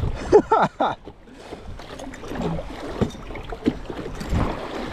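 River water splashing and rushing around a whitewater kayak, with scattered low knocks and splashes. A brief voice sounds in the first second.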